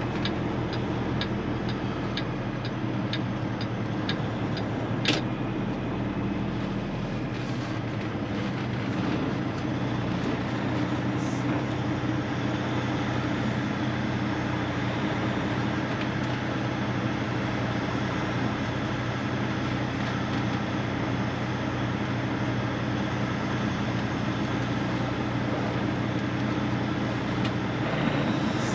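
Semi truck's diesel engine idling steadily. For the first five seconds a regular ticking, about two or three a second, runs over it, ending in a single sharp click.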